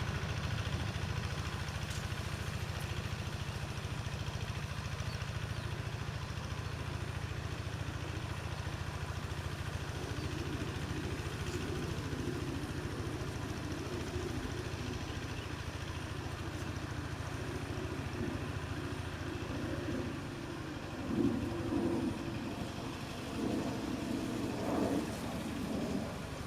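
Quick G1000 two-wheel hand tractor's diesel engine running steadily while ploughing a dry rice field. From about ten seconds in, a rougher mid-pitched sound joins the low engine hum. After about twenty seconds it grows louder in uneven surges.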